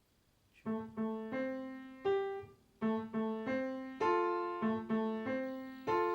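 Background piano music, a run of single struck notes each dying away, starting about two-thirds of a second in after near silence.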